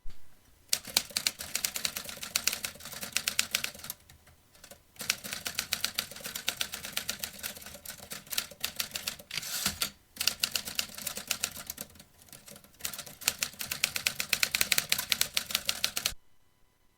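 Vintage typewriter being typed on: quick runs of key strikes clacking in four bursts, with short pauses between them. The typing stops about a second before the end.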